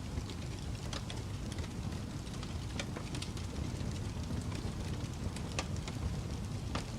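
Fireplace fire burning: a steady low rumble of flames with frequent sharp crackles and pops from the burning wood.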